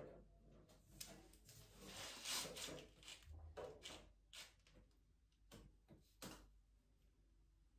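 Near silence with a few faint, scattered knocks and rustles of something being handled.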